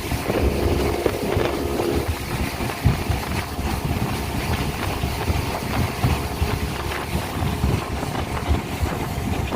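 Speedboat engine running under way, with a steady rush of wind and water noise.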